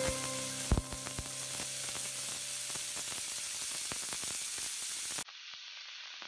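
Shrimp and garlic sizzling in hot oil in a wok, with a few sharp knocks of a wooden spatula against the pan as they are stirred. About five seconds in, the sizzle drops abruptly to a quieter, duller hiss.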